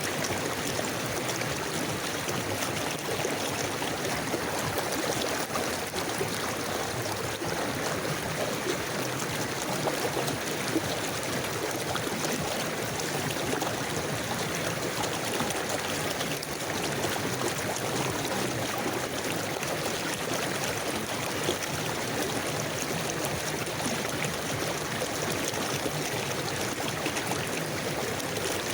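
River water flowing steadily over rocks, a continuous babbling rush with small irregular splashes.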